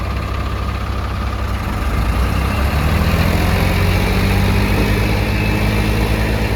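Tractor diesel engine running, its revs and loudness climbing about two seconds in and then holding under load.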